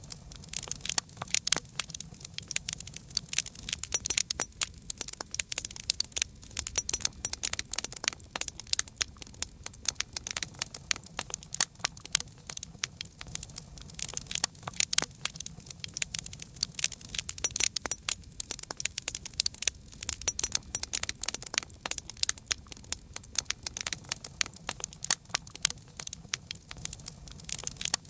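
Wood fire crackling: dense, irregular sharp pops and snaps over a low steady rumble of flames.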